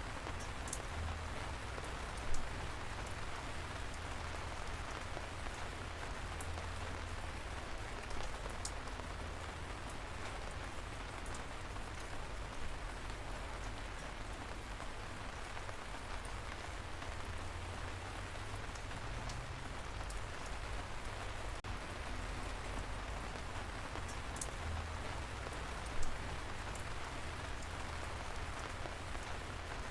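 Steady light rain falling as an even hiss, with scattered close drops ticking. Two single louder drop hits come at about two seconds in and again near the end.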